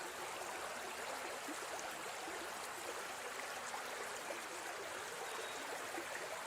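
Steady rushing of a flowing river or stream, even and unbroken.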